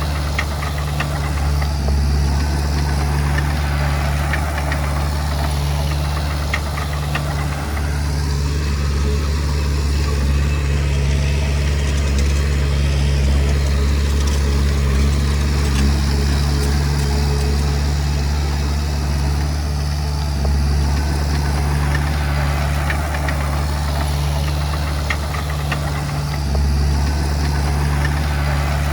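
Komatsu D20P bulldozer's diesel engine running steadily, with scattered light clicks and clanks over it.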